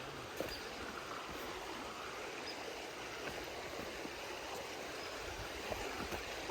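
Steady rush of running creek water, with a few faint clicks.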